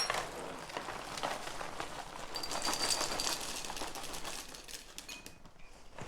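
Dry Cinnamon Toast Crunch cereal being poured from its box into a bowl: a dense, rattling patter of many small hard pieces landing, which thins out about five seconds in.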